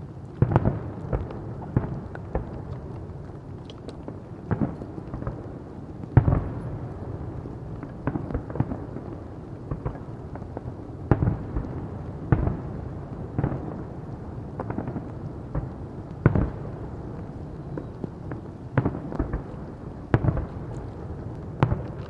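Fireworks exploding in an irregular series of sharp bangs, a couple every second or two, over a continuous low rumble.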